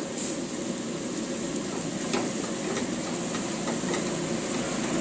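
Chilli chicken gravy sizzling steadily in a hot pan, with a few light clicks of a spoon against the pan.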